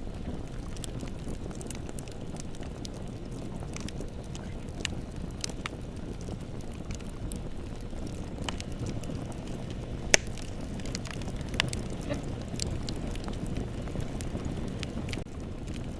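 Bonfire burning: a steady low rush of flames with scattered irregular crackles and pops from the burning wood, one sharp pop about ten seconds in louder than the rest.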